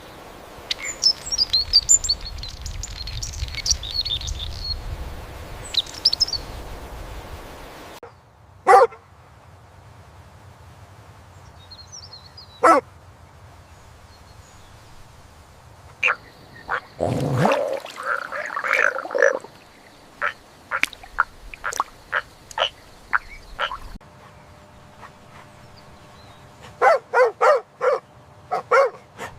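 A series of animal calls in short edited segments: high chirping over a low rumble at first, then scattered single calls with a longer burst in the middle, and near the end a quick run of about six calls.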